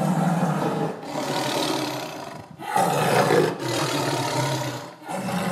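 Dinosaur roar sound effects: two long, rough roars one after the other, with a third beginning near the end.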